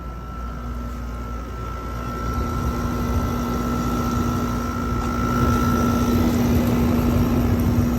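LG 6000 BTU window air conditioner running in cool mode, its fan and GMCC compressor giving a steady hum with a held tone. It grows louder over the first five seconds and then stays level.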